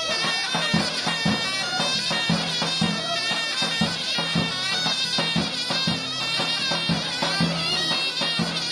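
Turkish folk music on zurna and davul: a shrill double-reed pipe playing a wavering melody over steady bass-drum strokes.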